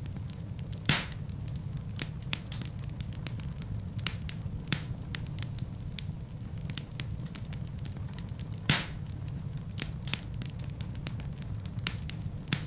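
Fire burning in a fireplace: a steady low rumble of flames with frequent small crackles, and two loud pops, about a second in and again near nine seconds.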